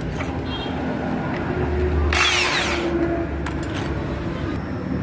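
Power tool running steadily, with a harsh metal-grinding burst lasting under a second about two seconds in, as it bites into the steel of a motorcycle brake disc.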